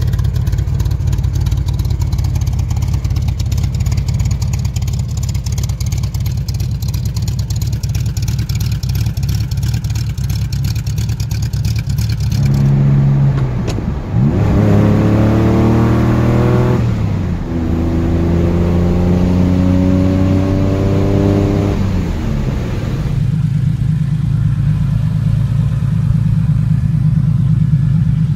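Turbocharged 2.4-litre flat-six car engine running steadily at low revs, then heard from inside the car accelerating through the gears: its pitch climbs, drops sharply at each shift about 14 and 17 seconds in, climbs again, and falls back to a steady low note for the last few seconds.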